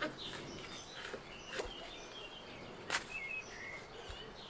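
Faint birds chirping, with two sharp clicks about one and a half and three seconds in.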